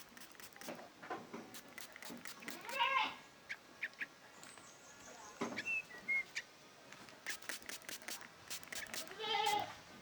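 Young yellow-vented bulbul chicks calling: two longer, wavering calls about three seconds in and near the end, a couple of short high chirps in between, and a scatter of sharp clicks throughout.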